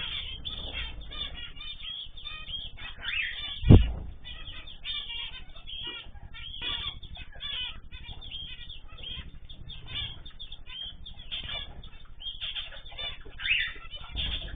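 A mixed flock of small ornamental cage birds (zebra finches, canaries, goldfinches and cockatiels) chirping and calling, many short overlapping notes at once, with one loud thump about four seconds in.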